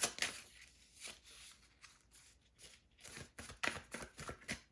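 A deck of tarot cards being shuffled by hand: short runs of papery flicks and rustles, with quiet gaps between them.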